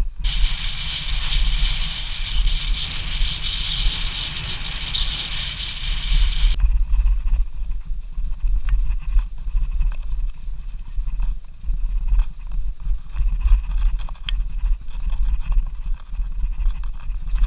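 Mountain bike riding on a trail, with a steady low rumble of wind buffeting the microphone. A high, hissing buzz runs for about the first six seconds and then cuts off suddenly, leaving scattered small clicks and rattles from the bike.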